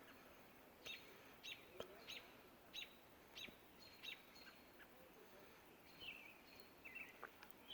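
Faint dawn birdsong: a songbird gives short, sharp chip notes repeated about every two-thirds of a second, with a few brief warbled notes near the end.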